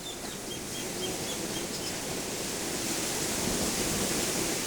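Ocean surf washing on the beach with wind, a steady rush that swells a little past the middle. A quick series of faint high chirps sounds in the first two seconds.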